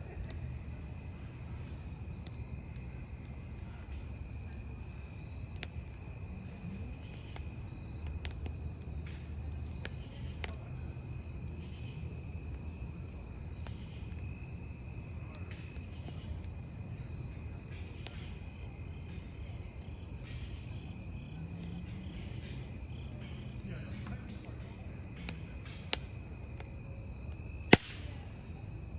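Crickets chirping steadily over a wood campfire burning with a low rumble and faint crackles; near the end two sharp pops from the burning wood, the second the loudest.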